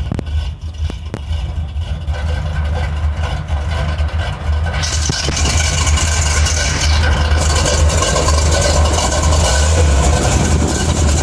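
Lifted brush truck's engine running with a steady deep rumble; about five seconds in a broad hiss joins it and the sound grows slightly louder.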